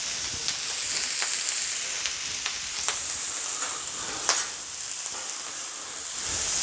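Onions, carrots and celery sizzling in oil on a Blackstone flat-top griddle as they are stir-fried, a steady hiss with scattered pops and a spatula clicking and scraping on the steel, loudest about four seconds in.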